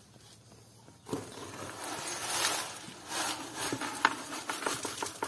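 A mason's trowel scraping and working pea-gravel concrete, a gritty scraping with small clicks of stone that starts about a second in.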